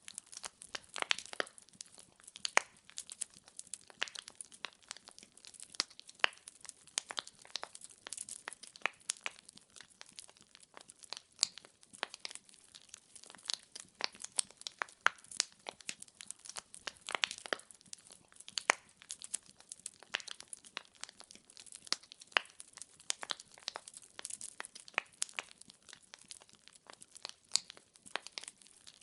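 Wood fire in a fireplace crackling steadily, with dense irregular sharp pops and snaps of burning firewood, several a second, over a faint hiss.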